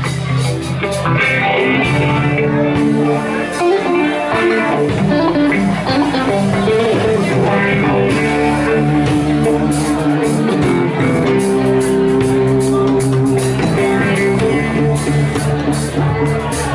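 Live reggae band playing an instrumental passage, guitar to the fore over a bass line.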